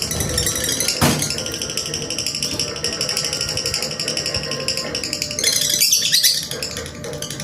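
Lovebird singing its ngekek: a long, very fast chattering trill held almost unbroken for several seconds, with a sharp click about a second in and a louder stretch near the end.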